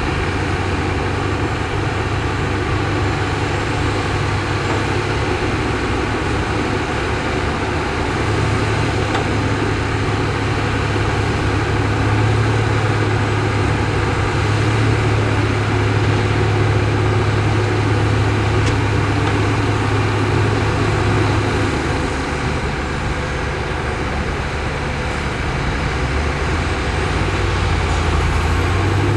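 Heavy diesel earthmoving machinery running, a steady low engine drone. It grows louder past the middle, eases off for a few seconds, then builds again near the end.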